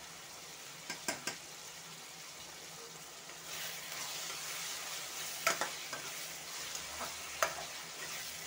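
Steel spoon stirring a tomato-onion masala frying in oil in a metal kadhai: a soft sizzle that grows louder about three and a half seconds in. A few sharp clinks of the spoon against the pan come about a second in and twice more later.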